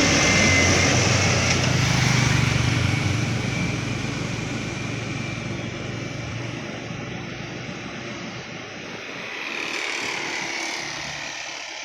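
A heavy vehicle's engine running hard as it passes and fades away, with a second vehicle swelling briefly about ten seconds in.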